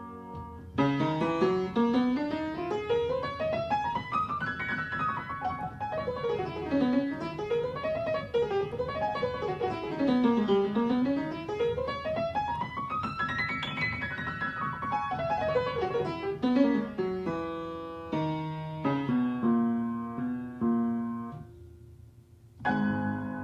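Solo piano playing fast runs of notes that sweep up and down the keyboard, then slowing to separate notes and chords. It fades briefly near the end before a new chord is struck.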